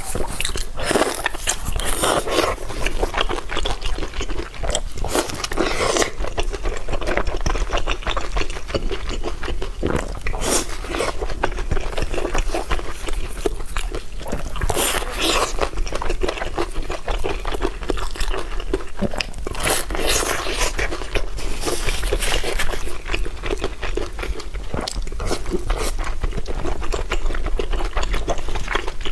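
A person chewing and crunching food, with many small crisp clicks and scrapes all the way through.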